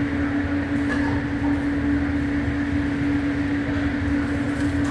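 Steady mechanical hum with one constant low tone over a bed of even noise, with a few faint light clicks.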